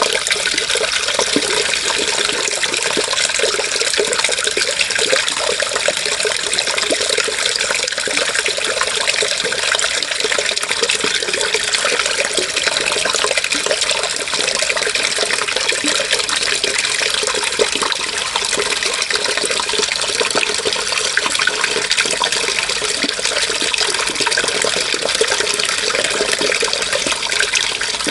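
Running water, a steady unbroken rush with a fine, splashing texture.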